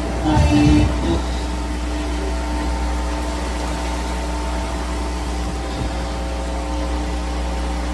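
Heavy rain falling in a steady hiss over a constant low mechanical hum.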